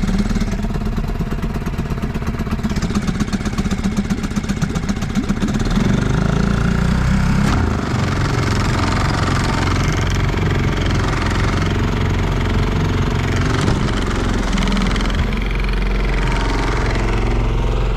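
Small boat's outboard motor idling with a fast, even beat just after starting, then running louder and smoother from about six seconds in.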